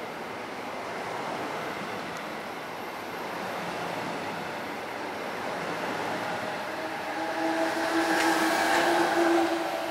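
NJ Transit bi-level commuter coaches rolling past close by as the train departs, a steady rush of wheels on rail. About seven seconds in it grows louder, and a steady whine of several tones rises over the rush as the rear of the train, with its ALP-45DP locomotive, draws near.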